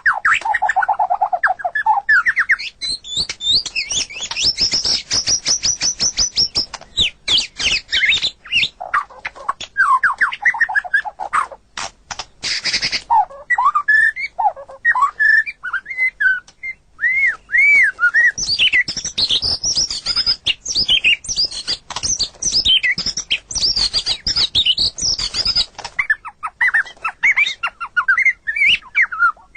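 White-rumped shama singing a long, varied song: fast high trills, looping whistled notes and dry rattling phrases follow one another with hardly a break.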